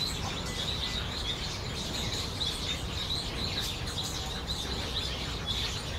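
Birds chirping in short, high notes again and again over a steady low rumble.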